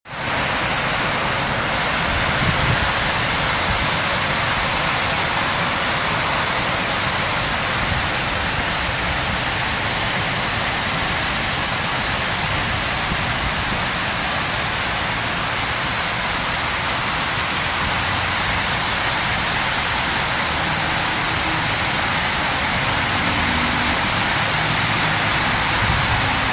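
Heavy rain falling steadily, a dense even hiss that holds at one level throughout.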